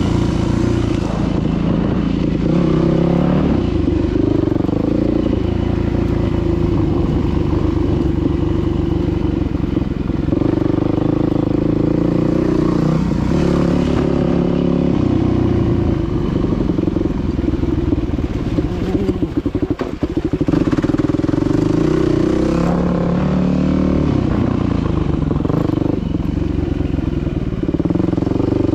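Dirt bike engine running while riding, its note rising and falling with the throttle several times and dipping briefly about two-thirds of the way through.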